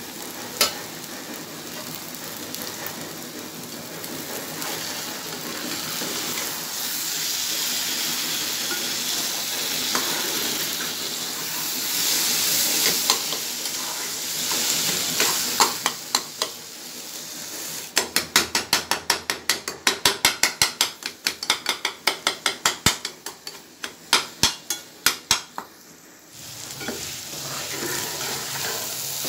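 Minced meat sizzling as it is fried in oil in a pan and stirred with a spatula. For several seconds past the middle the spatula strikes the pan in a quick, even rhythm, about four strokes a second, before the steady sizzle returns. This is the bhuna stage, the mince being fried in oil until it is done.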